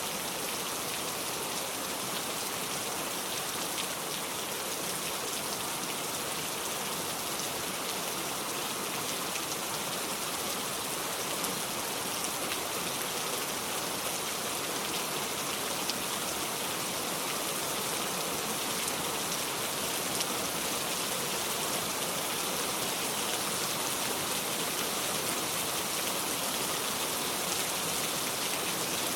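Steady rain: an even hiss dotted with many fine ticks of drops.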